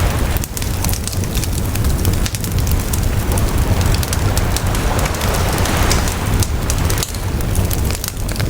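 Wood campfire crackling with frequent sharp pops and snaps, over a steady rumble of sea waves washing on the shore.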